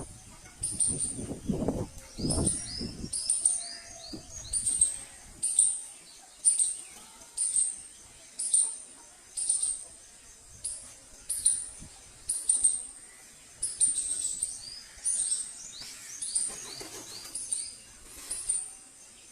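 Bird chirping: short, high-pitched chirps repeat about once a second, mixed with lower falling notes. A few low thumps come in the first three seconds.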